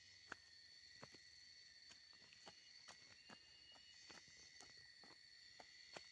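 Faint outdoor ambience: a steady high-pitched insect drone, with scattered light clicks at irregular intervals.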